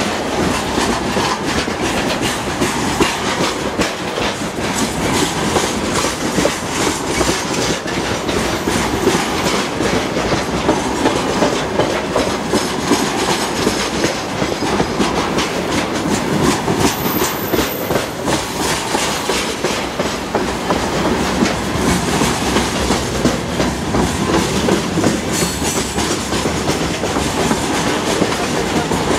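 Freight train wagons rolling past at close range, a steady clatter of steel wheels over the rail joints. Open gondola cars give way to covered hopper cars.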